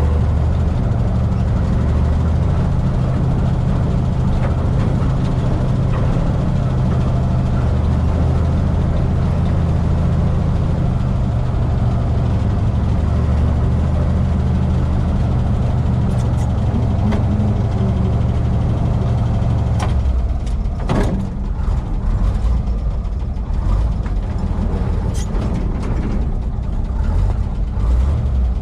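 1959 International B-160 crane truck's engine running steadily, with mechanical clicking over it. About 20 seconds in, the steady drone turns rougher and uneven knocks and clicks come through.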